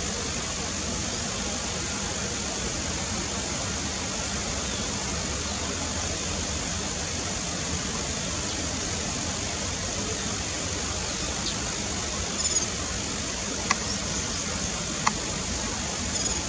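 Steady rush of distant road traffic. Near the end come a few brief, high bird chirps and two sharp clicks.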